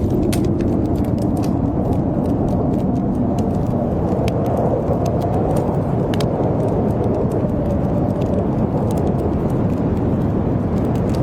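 Blizzard wind blowing in a steady, dense rush with a slowly wavering howl, while a wood fire crackles and pops in short sharp clicks scattered throughout.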